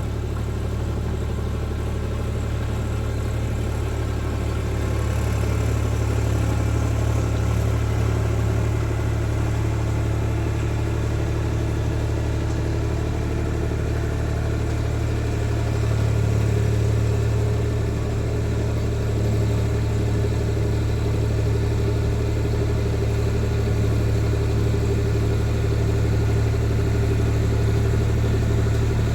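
Tractor engine running steadily, with a strong low hum that swells slightly a few times.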